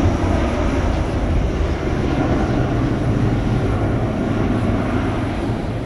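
Jet airliner engines, a loud steady rumble that slowly eases off toward the end.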